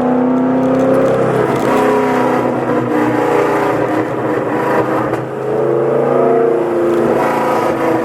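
Twin-turbo 2003 Mustang SVT Cobra's 4.6-litre V8 pulling in first gear, heard from inside the cabin, its note rising and falling with the revs. It eases off briefly about five seconds in, then picks up again.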